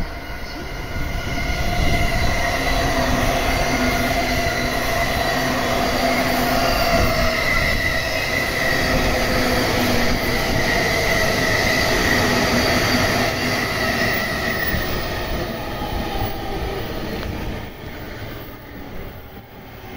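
Electric commuter train passing close at speed: a loud rumble of steel wheels on rail with steady high whining tones, dropping away a couple of seconds before the end.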